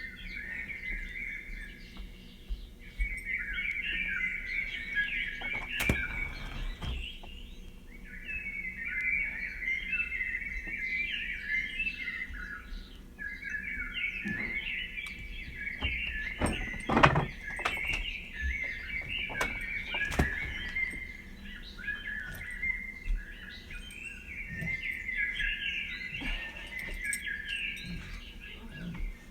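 Birds chirping and twittering in busy runs of a few seconds each, with short gaps between them. A few sharp knocks or taps cut through, the loudest about two-thirds of the way in.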